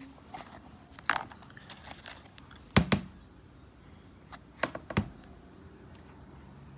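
Pieces of rough opal clicking and knocking against each other and a hard surface as they are picked up and set down: a click about a second in, a louder close pair near the middle, and two more a couple of seconds later.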